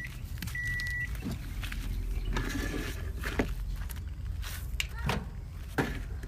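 Microwave oven giving one beep about half a second in, the last of a short run of end-of-cycle beeps that signal the cooking time is up. After it come a few short clicks and knocks over a steady low hum.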